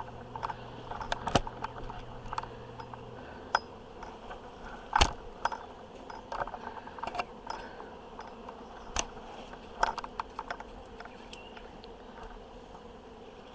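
Honeybees humming around an open hive that is close to swarming, with scattered sharp clicks and knocks over the top.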